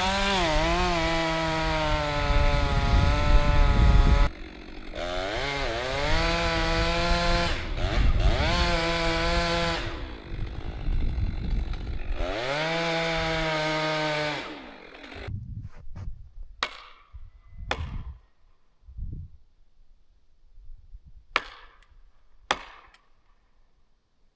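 Chainsaw cutting into a large tree trunk in three long full-throttle runs, its pitch dipping and recovering as the chain bogs in the wood, then shut off about fifteen seconds in. A few sharp knocks follow near the end.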